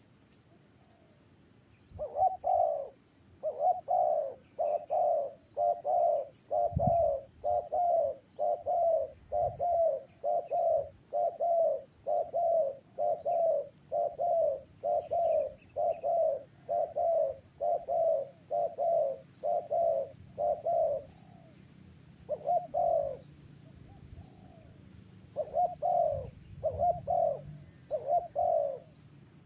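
Spotted dove cooing: a long run of evenly repeated low coos that begins about two seconds in, with a couple of short breaks in the second half. Faint high chirps of small birds sound behind it.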